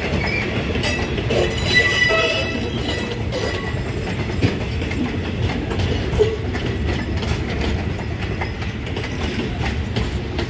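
Passenger railway carriages rolling slowly past on the track: a steady low rumble with scattered knocks from the wheels and couplings, and a faint high wheel squeal in the first few seconds.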